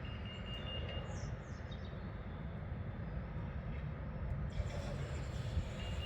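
A high-pitched electronic beep, about a second long, sounds at the start and again near the end, over a steady low rumble; a bird chirps briefly about a second in.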